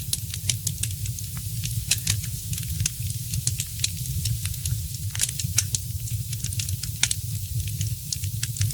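Wood fire crackling in a fireplace: a steady hiss with frequent, irregular sharp pops and snaps, over a constant low rumble.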